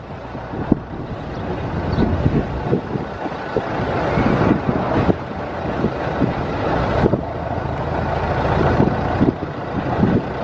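A 1924 Dodge Brothers tourer's four-cylinder, roughly 3.5-litre engine running while the car is driven, with rattles and knocks from the old car, growing louder over the first few seconds.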